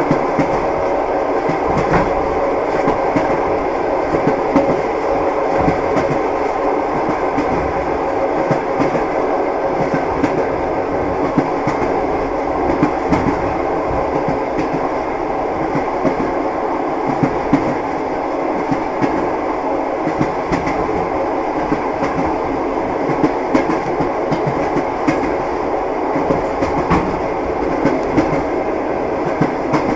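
Passenger train running, heard from inside the carriage: a steady rumble of the ride with the wheels clacking over the rail joints.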